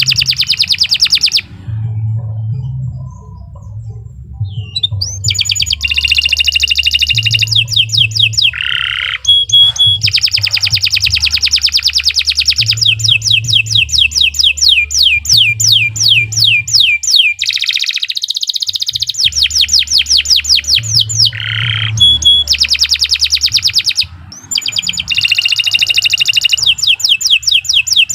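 Domestic canary singing a long song of fast trills, each phrase a run of rapidly repeated notes at a steady speed, changing from one trill to the next with brief pauses between phrases.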